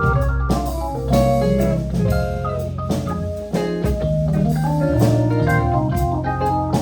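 Live band playing an instrumental passage: organ chords, electric guitar lines and a drum kit keeping time, with no singing.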